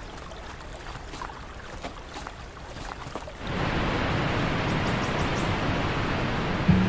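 Faint quiet ambience with a few small ticks, then, about three and a half seconds in, a steady rush of ocean surf comes in and holds. Music begins just at the very end.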